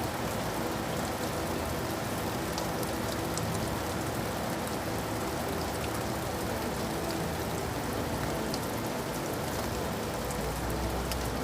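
Steady rain falling, a dense even hiss with scattered sharp ticks of single drops striking a surface, and a faint low steady hum underneath.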